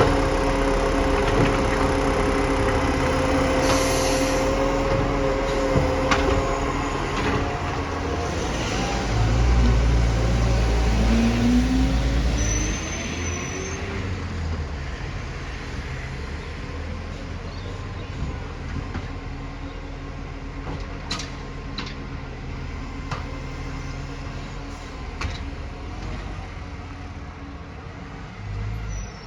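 Garbage truck running: a steady engine hum, then a deep rumble swells for about three seconds with a short rising whine, after which the sound drops away quieter.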